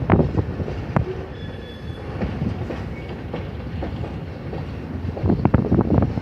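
Escanaba and Lake Superior Railroad freight train rolling past, its wheels knocking irregularly over the rail joints, with a thicker run of knocks near the end.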